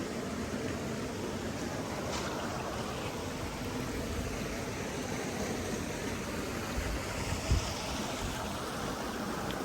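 Stream water flowing steadily, with a brief low thump about seven and a half seconds in.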